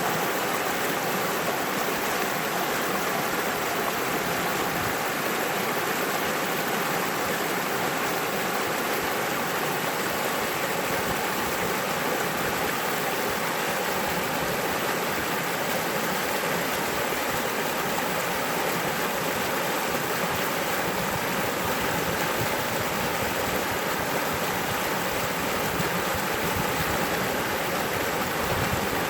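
Mountain stream rushing, a steady unbroken wash of running water.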